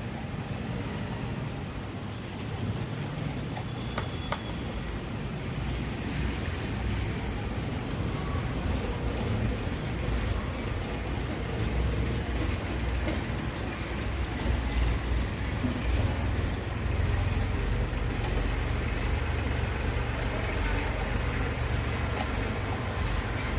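Steady low background rumble with faint, scattered light clicks.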